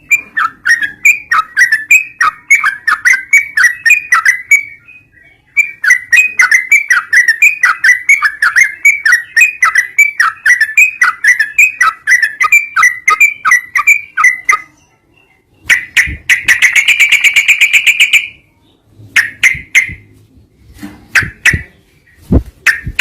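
Recorded songbird song played loud as a lure track to get a sooty-headed bulbul (trucukan) singing. Fast runs of short, falling whistled notes, several a second, break off twice. About two-thirds of the way in comes a rapid, buzzy trill lasting a couple of seconds, followed by scattered separate notes.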